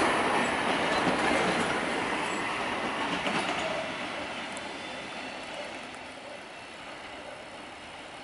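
Freight train of hopper wagons rolling away over the rails: steel wheel and rail noise with a few knocks, fading steadily as the last wagons pull into the distance.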